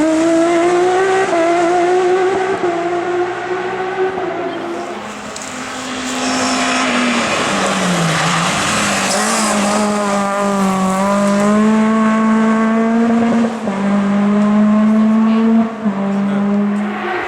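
Hill climb race car engine driven hard, revving and shifting through the gears, each shift a brief dip in the note. About halfway through the pitch drops low as it slows, then the engine pulls up through the revs again with two quick upshifts near the end.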